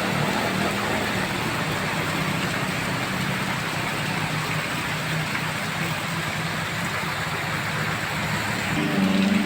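Heavy rain hissing steadily on a road while a vehicle's engine passes, its hum fading away. Near the end a louder engine hum comes in as the next vehicle approaches up the incline.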